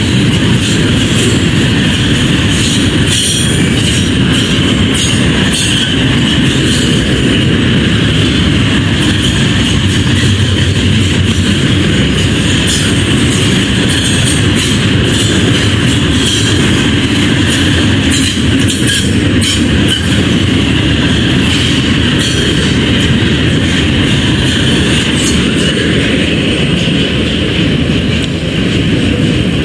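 Double-stack container freight train rolling past: a steady rumble of steel wheels on rail, with a high wheel squeal running under it and rapid clicks from the rail joints.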